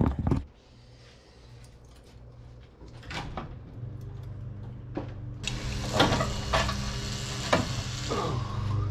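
Scattered metallic clanks and knocks from work on a truck's front bumper as it is pulled off. A steady low hum with hiss comes in about halfway through, and the clanks grow louder from then on.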